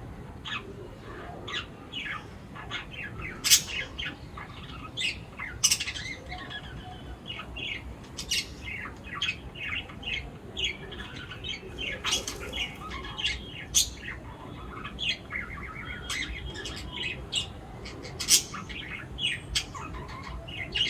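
A group of birds chirping and calling, many short overlapping notes in quick succession, with a few louder, sharper calls standing out.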